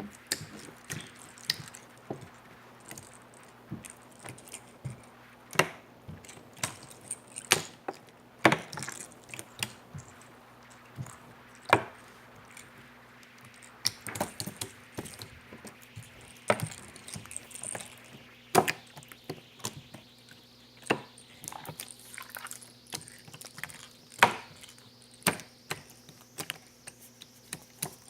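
Jiggly slime worked by hand, giving irregular sticky clicks, pops and crackles as it is pressed and squeezed, over a faint steady electrical hum.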